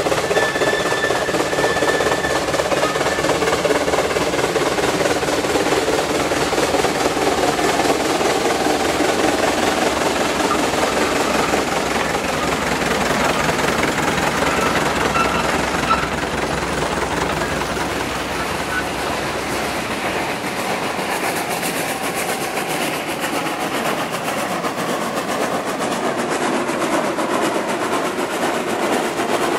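A steam-hauled train rolling past, a steady running noise of wheels on rails; the deepest rumble fades about two-thirds of the way through.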